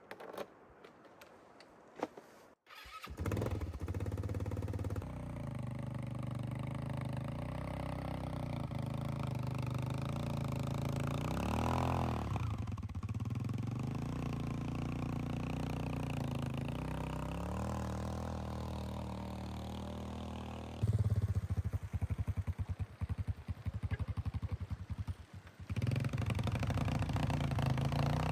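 ATV engine starting about three seconds in, then running with small rises and falls in revs, getting louder and more uneven about two-thirds of the way through.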